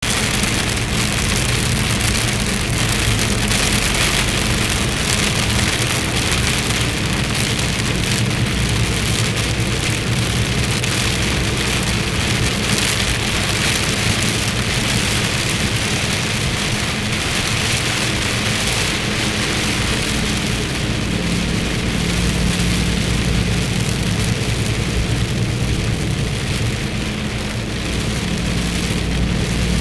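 Rain falling steadily on a surface, over a steady low engine hum.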